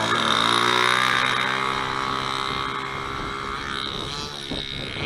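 Model airplane's Evolution 8cc two-stroke gas engine at full throttle for takeoff, its pitch climbing slightly at first, then holding steady as the sound slowly fades with the plane moving away.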